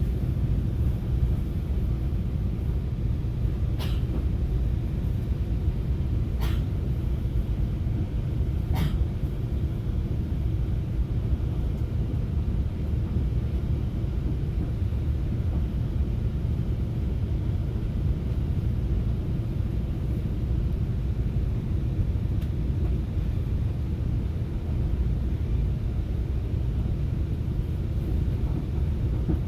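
Steady low rumble of a FrontRunner commuter train in motion, heard from inside the passenger coach. Three short sharp clicks come a couple of seconds apart in the first ten seconds.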